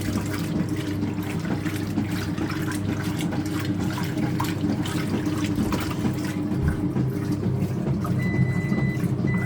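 Speed Queen top-loading washer agitating a load of towels: a steady motor hum with water sloshing in the tub. Near the end the touch control panel sounds a long high beep, then starts beeping again.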